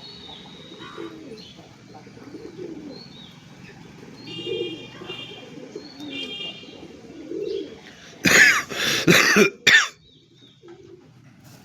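Pigeons cooing with small birds chirping among them. Near the end come three loud, harsh bursts close to the microphone, much louder than the birds.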